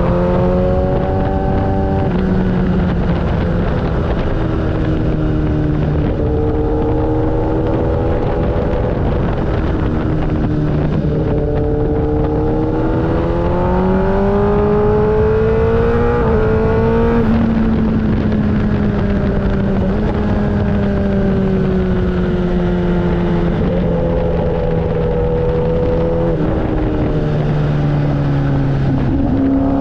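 Motorcycle engine under way, its pitch climbing as it accelerates and dropping back at each gear change, several times over, above a steady rushing noise.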